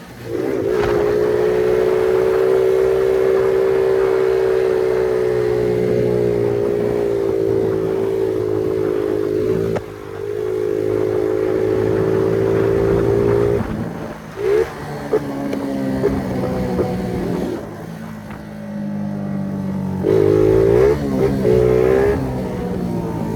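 Small 50cc moped engine revving high and held near full throttle, a steady high buzz that dips briefly about ten seconds in and climbs straight back. After about fourteen seconds it eases off and revs in shorter, uneven bursts, with a hard rev-up near the end.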